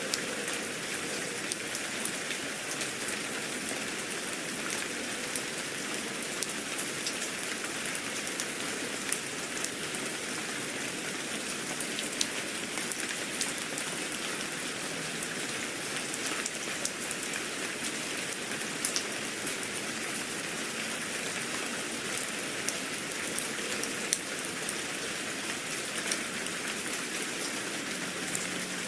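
Steady rain, with many small drops pattering sharply on a surface.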